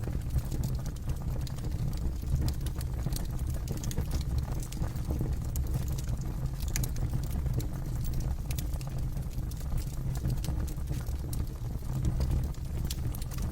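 Wood fire burning, with frequent irregular sharp crackles and pops of the burning wood over a steady low rumble of the flames.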